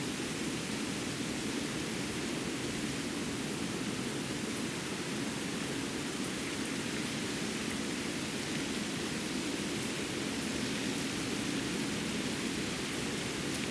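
Winter forest ambience: a steady, even rushing noise that does not change, with no distinct calls, voices or impacts.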